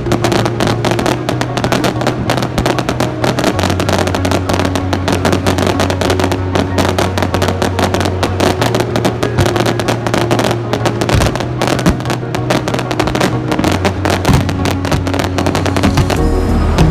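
Fireworks cracking and banging in rapid, dense succession, mixed with background music whose bass notes change every couple of seconds.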